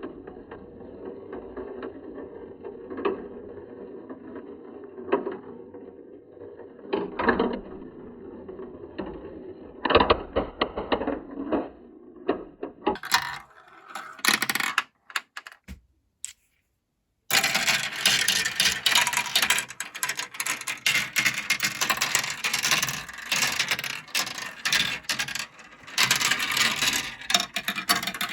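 Marbles rolling down a plastic marble-run track with a steady rumble and an occasional click where they drop or hit a bend. After a brief silence about two thirds of the way in, many marbles clatter and click densely together.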